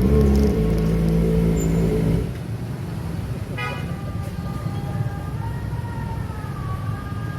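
Kawasaki ZX-25R inline-four running through its Prospeed aftermarket exhaust with a steady note for about two seconds, then falling away. About three and a half seconds in a short horn beep sounds, followed by a slowly wavering, siren-like tone.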